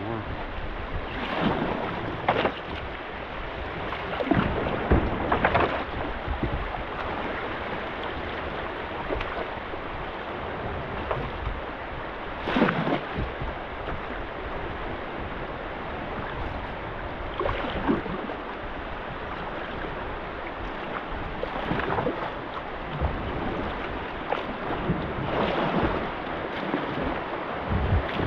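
Kayak paddle strokes swishing and splashing in river water every few seconds, unevenly spaced, over a steady hiss of moving water and wind on the microphone.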